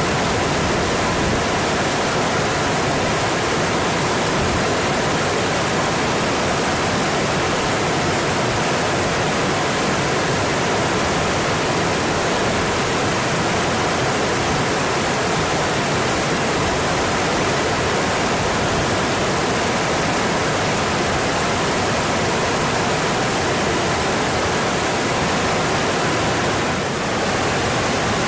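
Mountain stream flowing, a steady rush of water that dips slightly for a moment near the end.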